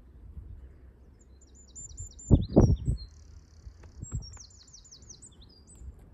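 A small songbird singing high, quick phrases: a run of rapid repeated downward-swept notes, a short buzzy note, then another rapid run. A cluster of heavy low thumps about halfway through is the loudest sound, with one more thump a little later.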